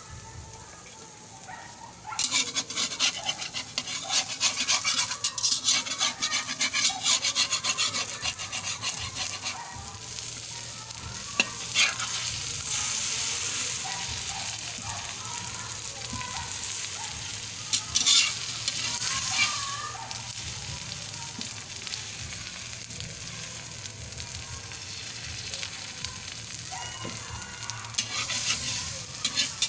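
Eggs with moringa leaves, tomato and onion sizzling in hot oil in a metal wok, with a metal spatula scraping and turning them in quick strokes. The scraping starts about two seconds in, gives way to a steadier sizzle in the middle with a couple of sharp clanks, and picks up again near the end.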